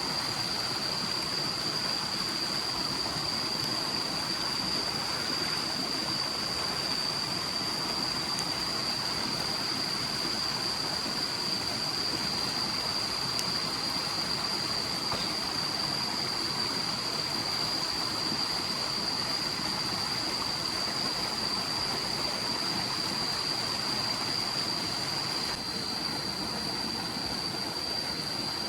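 Forest stream flowing with a steady rush of water, and a constant high-pitched whine held on one note over it.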